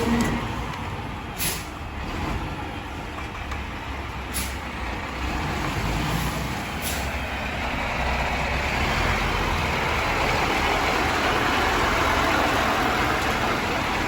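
Mack LR garbage truck with a Heil rear-loader body running, with three short air hisses in the first half; a broad rushing noise builds from about halfway through.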